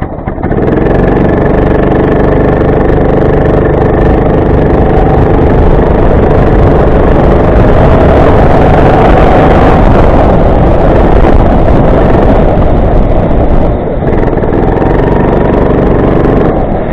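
Racing kart's small engine running hard under way, with a loud rushing noise over it. The engine pitch climbs in the middle, drops briefly about three-quarters of the way through as the throttle is lifted, then picks up again.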